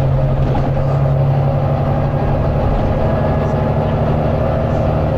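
Volvo B9TL bus's six-cylinder diesel engine running with a steady low drone, heard from inside the bus.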